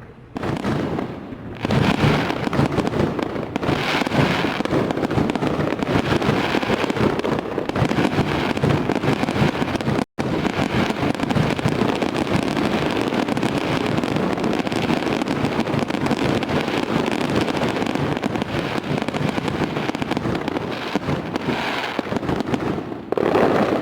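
Fireworks barrage: a dense, continuous mass of crackling and popping bursts overlapping one another, with a momentary dropout about ten seconds in.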